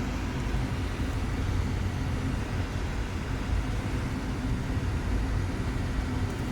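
Steady low rumble of a moving vehicle heard from inside, with a faint steady hum and no distinct events.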